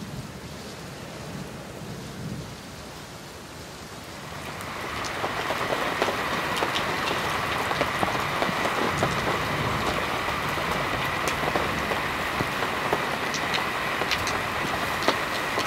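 Steady rain falling, with many sharp drop hits close by. It comes in about four or five seconds in, after a quieter stretch with a low rumble of distant thunder.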